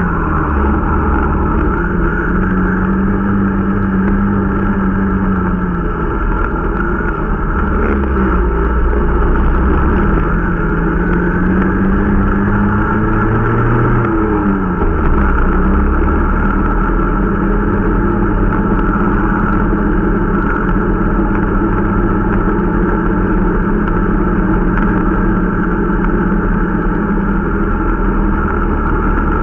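Irbis Dingo T125 snowmobile's 125 cc four-stroke engine running under way, its engine speed dipping and rising a few times in the first half, then holding steady.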